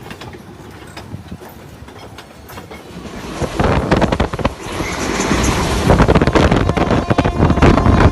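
A train running on the rails, its wheels clattering over the track. The sound becomes much louder about three seconds in, with a dense run of knocks and clicks.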